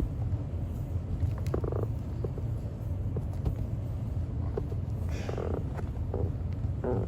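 Steady low hum with scattered light clicks and knocks, and a couple of brief muffled sounds.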